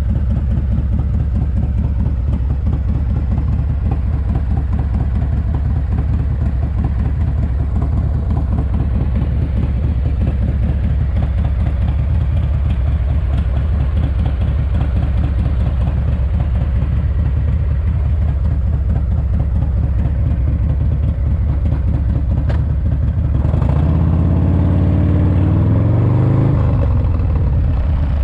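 S&S 107ci V-twin engine of a 1985 Harley-Davidson FXRT running steadily on the road during break-in, with a pulsing rumble. Near the end the engine accelerates, its pitch rising for about three seconds, then drops back.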